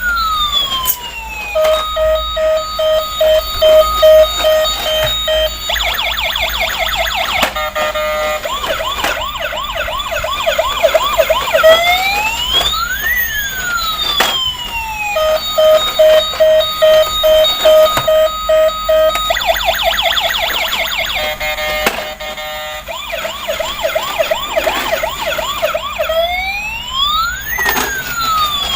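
Battery-powered toy police car's electronic siren through its small speaker, cycling through a rising-and-falling wail, a steady rapid beeping, and a fast warbling yelp. The sequence repeats about every 13 to 14 seconds, twice here.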